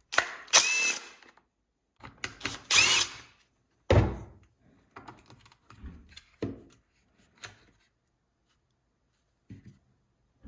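Power driver with a T27 Torx bit running twice, about a second each time, backing out the screws that hold the carburetor on the saw. A sharp thunk follows, then small knocks and clicks of parts being handled.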